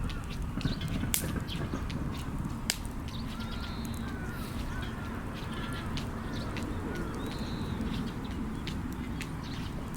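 Wood campfire crackling with scattered sharp pops, two loudest about a second in and just under three seconds in, over a low rumble. Birds call in the background with a run of short arching calls through the middle.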